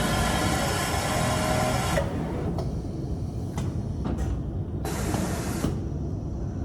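Industrial overlock sewing machine running at speed, steady for about two seconds and then sewing in several short spurts over a low machine rumble.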